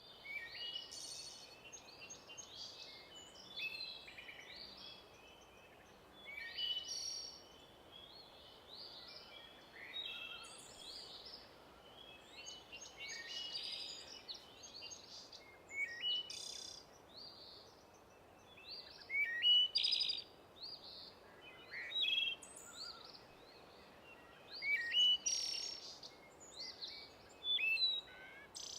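Small birds chirping and singing: a busy run of short, high calls that come and go, with a few louder calls in the second half.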